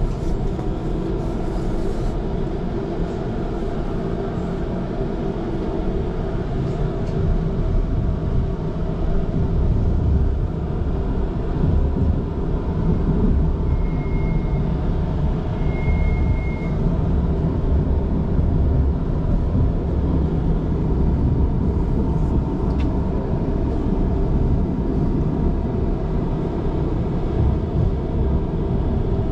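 Inside a moving Budapest tram: a steady low rumble of wheels on rails with the constant hum of the drive motors. Two short high beeps sound about halfway through.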